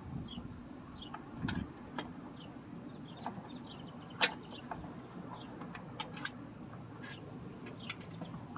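Scattered sharp clicks and clinks of hand tools on metal, one louder clink about four seconds in, over faint bird chirps and a low steady hum.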